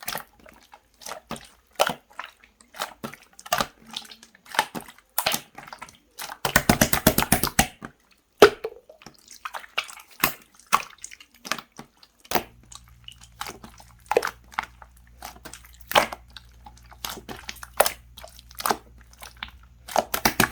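Clear slime being squished and stretched by hand, making irregular sticky clicks and pops, with a quick run of rapid clicks about six and a half seconds in.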